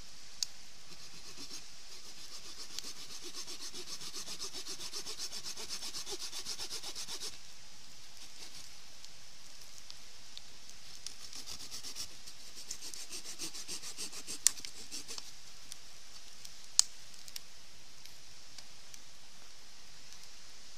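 Wood being cut with a hand saw: two spells of quick rasping strokes, the first about six seconds long and the second about three, followed by two sharp knocks.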